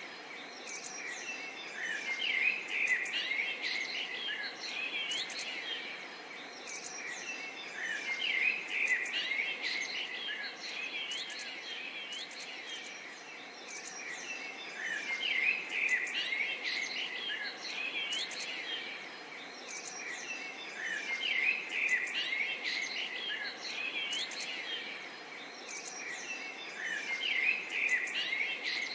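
Several songbirds chirping and singing over a steady background hiss of outdoor noise, the chorus swelling and easing about every six seconds.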